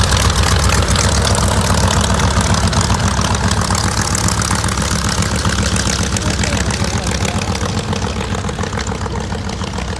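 Mitsubishi Zero's radial aircraft engine running steadily at idle with a deep, even pulsing, growing slightly quieter and duller over the last few seconds.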